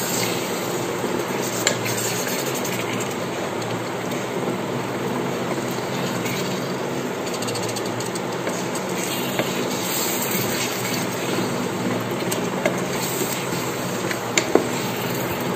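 Chicken and onion masala sizzling in an electric rice cooker's non-stick pot while a spatula stirs and scrapes through it, over a steady low hum.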